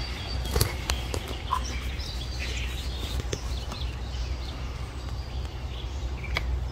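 Birds chirping faintly over a steady low rumble, with a few sharp clicks scattered through.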